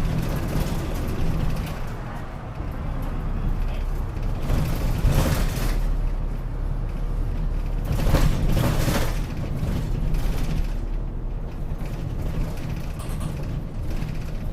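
Inside a Gifu Bus city bus while it drives between stops: the engine's steady low rumble with rattles and creaks from the body. Two short bursts of hiss come about 5 and 8 seconds in.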